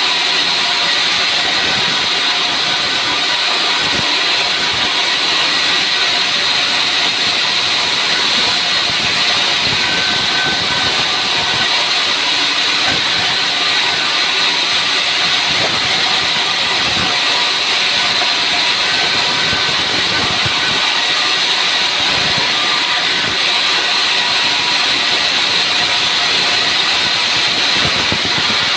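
Sawmill saw cutting steadily through dry pine wood: a loud, even noise that runs on without a break.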